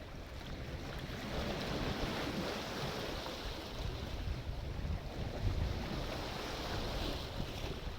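Sea surf washing in, a swell of rushing water building about a second in and carrying on steadily over a low rumble.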